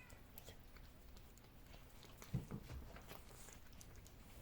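Faint small clicks of cats eating a jelly cat treat, with a soft thump about two and a half seconds in.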